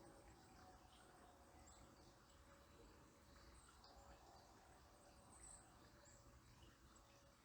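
Near silence: faint outdoor ambience with a few brief, faint high-pitched bird chirps, one a little louder about five and a half seconds in.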